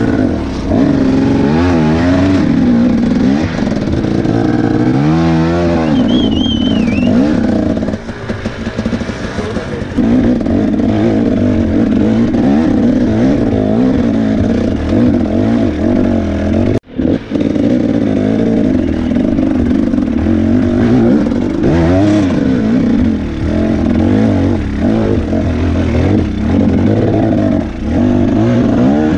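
2017 Husqvarna TE 250 two-stroke enduro engine revving hard and unevenly under load up a rocky climb, the pitch rising and falling constantly with the throttle. The revs sag and run rough for a couple of seconds about eight seconds in, and the sound cuts out for an instant about seventeen seconds in.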